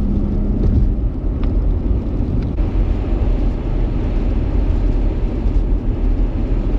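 Strong blizzard wind rumbling steadily across the microphone, with a low hum that stops about a second in.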